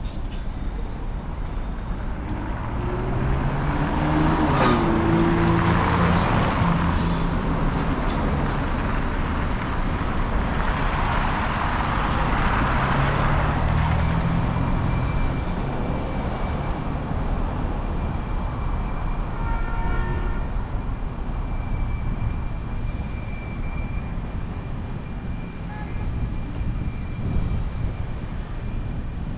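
City street traffic: two vehicles pass by, the first about three seconds in and the second about ten seconds in, over a steady low rumble of traffic.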